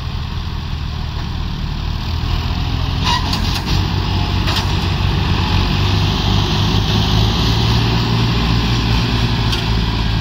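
Diesel tractor engine running hard under load while pulling a loaded sugarcane trolley. It grows louder over the first couple of seconds and holds there, with a few sharp clicks about three to four seconds in.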